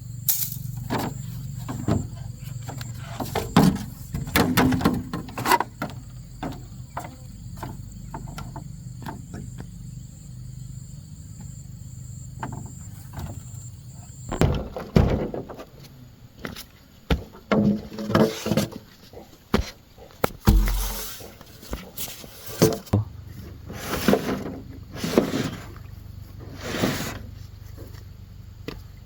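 Irregular knocks and thuds, some with a short ringing tail, coming more often in the second half, over a steady high-pitched whine that stops about halfway through.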